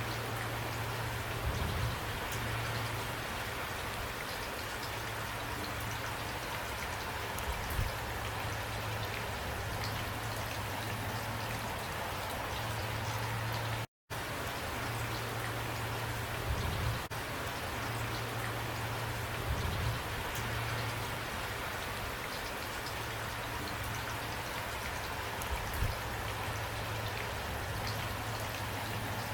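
Steady rain falling, with a few soft low thumps now and then. The sound cuts out completely for an instant about halfway through.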